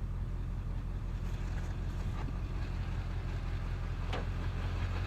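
Vehicle engine idling steadily with a low, even hum, with a brief scrape about four seconds in.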